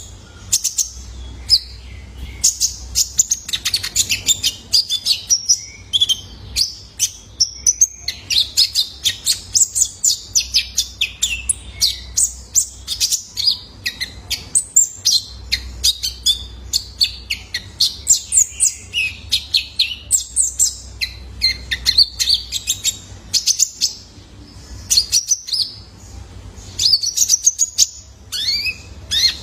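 Young male kolibri ninja sunbird singing a fast, unbroken stream of sharp, high chirps and twittering trills. It is used as a lure song to set other birds singing.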